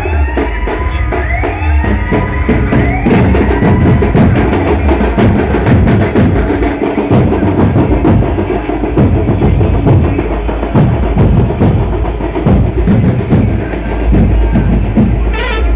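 Loud music driven by fast, dense drumming, with gliding tones over the first three seconds before the drum strokes take over.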